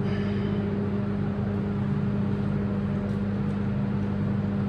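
2005 Harley-Davidson FXDI's fuel-injected Twin Cam 88 V-twin running steadily at an even speed on its first start after a rebuild of the cam plate, oil pump and cam chain tensioners with S&S parts.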